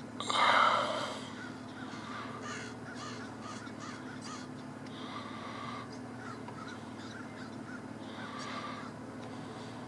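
A single loud bird call, about a second long, near the start, then faint short chirps that repeat throughout, over a steady low hum.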